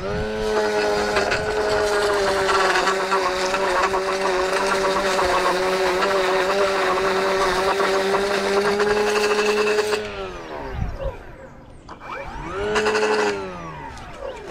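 Handheld lawn edger running at full speed with a steady high whine for about ten seconds, then letting off and winding down. It is revved up briefly once more and dropped back near the end.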